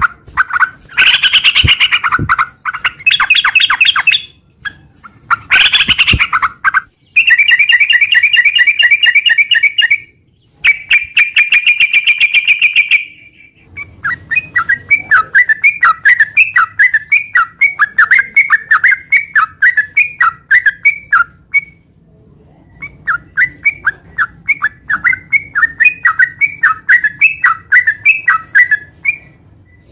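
Yellow-vented bulbul (trucukan) singing its long rolling chatter ('ropel'): loud runs of rapid repeated notes lasting a few seconds each, then quicker trains of short bubbly notes, with brief pauses about halfway and again near the end.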